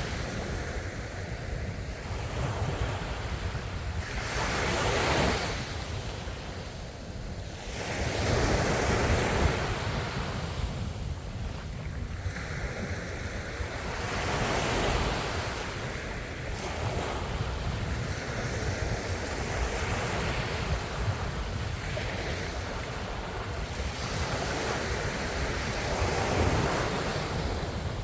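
Ocean waves breaking on a shore: surf noise swelling and falling away in surges every few seconds, over a steady low rumble.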